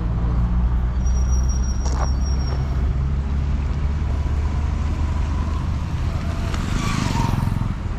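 Road traffic: a vehicle engine's steady low running, with a short high whine and a sharp click about two seconds in and a brief hissing rush about seven seconds in.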